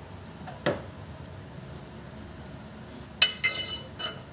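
Loose metal tools and parts knocking and clinking: a single knock just under a second in, then a louder ringing clank of metal on metal about three seconds in, followed by a smaller clink.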